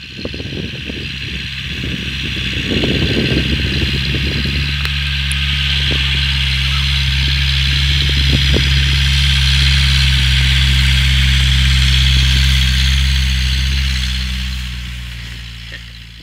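A Cournil 4x4's engine running at steady speed under a constant hissing rush. It is rough and uneven for the first few seconds, then settles into a steady hum. The sound fades in at the start and fades out near the end.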